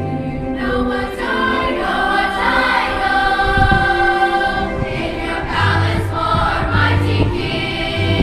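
A school choir singing long held chords, over steady low bass notes.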